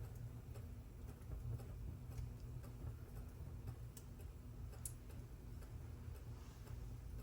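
A clock ticking steadily about twice a second beside a wood fire in a fireplace, with two sharp crackles from the fire about four and five seconds in, over a low steady rumble.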